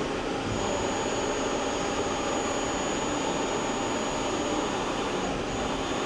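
Milltronics RH20 CNC vertical mill's X axis traversing under its Yaskawa AC servo drive and ball screw: a steady mechanical whir with a thin high whine that drops out briefly near the start and again near the end.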